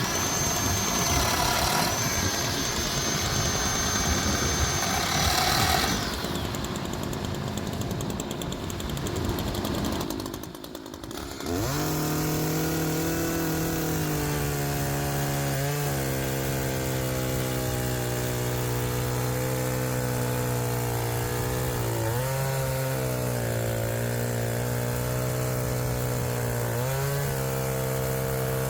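A chainsaw engine comes in about twelve seconds in and runs at high revs with a steady pitch, dipping briefly a few times as it bucks logs. Before that, a noisier machine sound with a high steady whine runs for about six seconds.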